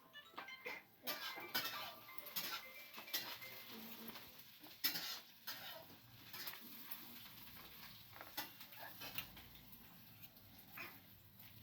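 Faint, irregular clinks and knocks of dishes and metal utensils, some ringing briefly; the strikes come thickly for the first half and thin out later, the loudest about five seconds in.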